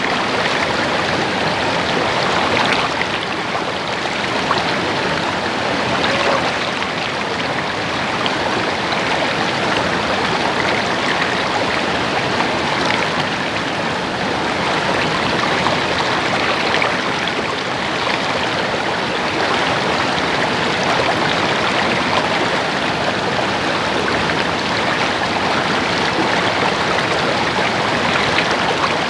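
Stream water babbling and trickling steadily over rocks, an even rush without pause.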